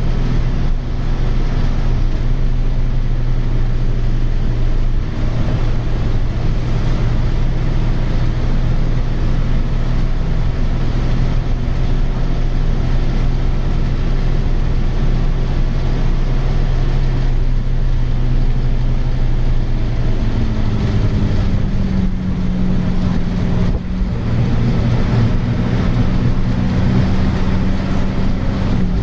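Ashok Leyland bus's Hino diesel engine running at a steady speed, then speeding up about twenty seconds in and holding the higher, rising pitch.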